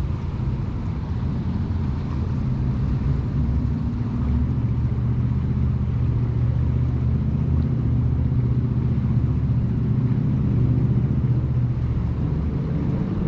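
An engine running steadily, a low hum with a clear pitch that grows gradually louder toward the end.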